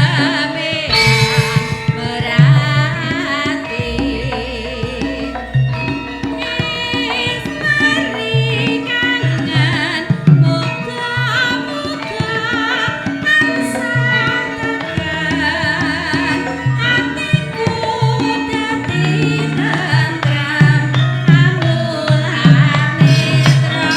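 Javanese gamelan accompaniment playing a song, with a melody line and steady hand-drum (kendang) strokes.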